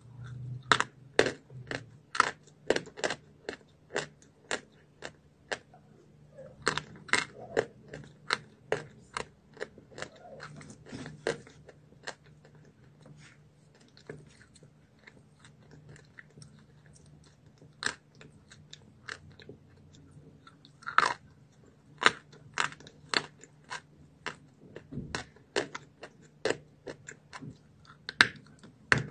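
Crunching and chewing of hard, crumbly eating chalk close to the mouth: sharp crunches, often about two a second, easing off for a few seconds midway, over a faint steady low hum.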